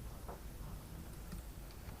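Faint scattered clicks and light taps of small metal parts and hand tools being handled, over a low steady hum.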